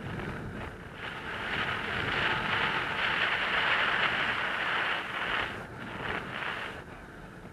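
Wind rushing over the microphone, swelling louder about a second in and easing off after about five seconds.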